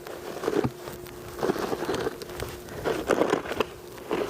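Snow crunching and scraping in four short bursts about a second apart.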